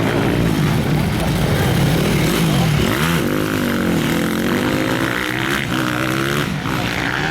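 Motocross bike engines running and revving, rising and falling in pitch, with a deep swoop down and back up about three seconds in.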